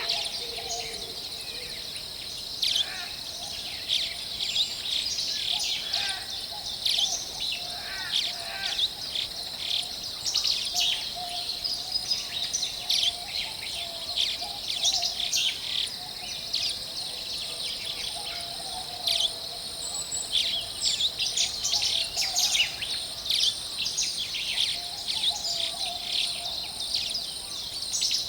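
Forest birdsong: several birds chirping and singing in quick, overlapping calls, with a lower warbling song that comes and goes. Underneath runs a steady high-pitched drone.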